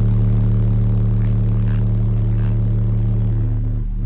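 Car audio subwoofers playing a 37 Hz test tone at full volume for an SPL meter reading: a loud, steady drone with a slight dip near the end.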